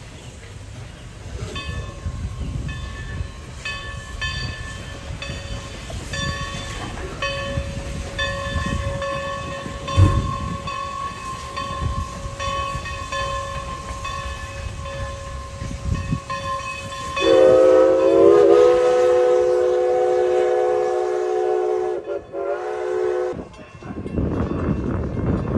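Steam locomotive running, with a low rolling rumble and high, steady ringing tones on and off. About two-thirds of the way in, its chime steam whistle blows: several notes together, one long blast of about five seconds, broken briefly near the end.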